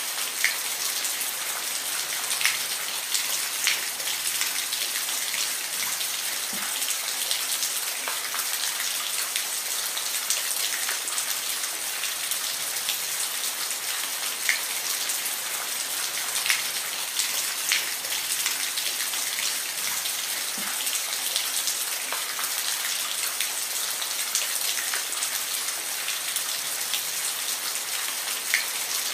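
Steady rain falling, a constant hiss with scattered sharper drops striking a surface.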